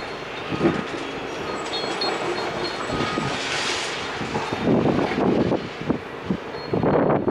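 Demolition machinery working on a building, with irregular clattering and scraping of rubble and metal and a few brief high squeals.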